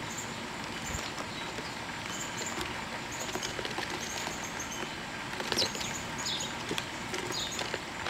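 Small birds chirping: many short, high chirps repeated throughout, with a few quick falling notes in the second half and scattered light ticks.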